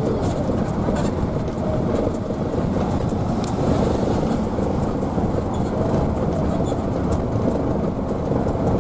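Steady running noise of a Hino AK bus under way, heard from inside the cabin: engine and road noise with a few light rattling ticks.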